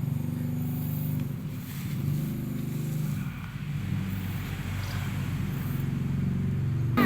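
A motor vehicle's engine running steadily at low speed, its hum holding a fairly even pitch throughout.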